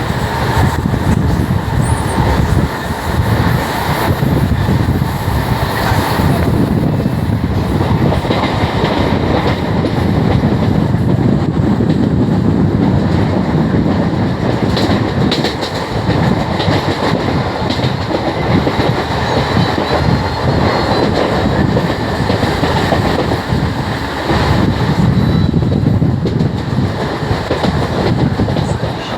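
Mumbai suburban local train, an electric multiple unit, running on the track: a loud, steady rumble of wheels on rails.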